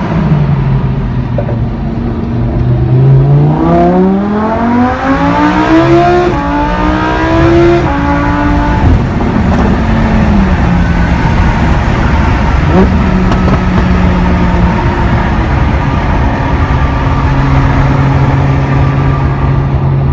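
Lamborghini Huracán's 5.2-litre naturally aspirated V10 accelerating hard, its pitch climbing for several seconds, then dropping in steps as the dual-clutch gearbox shifts up. It then runs steadily at a constant engine speed for the rest of the time.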